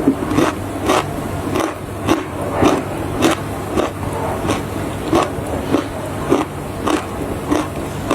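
Close-up crunching as a person bites and chews hard, dry edible clay, about two crunches a second in a steady chewing rhythm.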